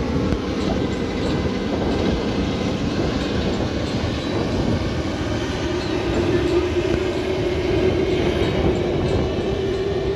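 Rice combine harvester running steadily while cutting the crop, a continuous loud mechanical rumble. About halfway through, a steady hum joins it.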